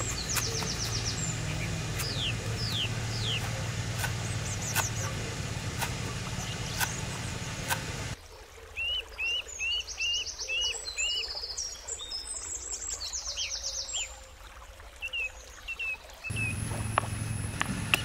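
Wild birds singing and calling: quick chirps, trills and a run of about six evenly spaced chirps. A low steady rumble with a few sharp clicks sits under the birds at first, stops abruptly about eight seconds in, and comes back near the end.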